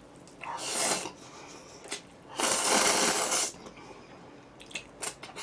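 Two long slurps of instant jjajang noodles, each about a second long, the second louder. A few small clicks come near the end.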